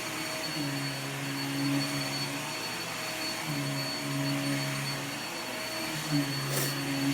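Vacuum cleaner running steadily with a high whine over its hiss, and a low hum that swells and drops away every second or two. A brief sharp click comes near the end.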